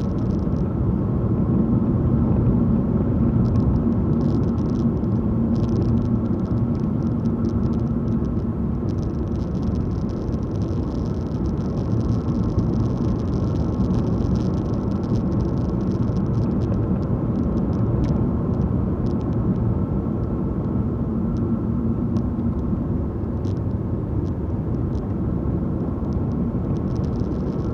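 Car driving at a steady speed: a continuous engine and tyre road rumble with a faint steady hum, with scattered tiny ticks.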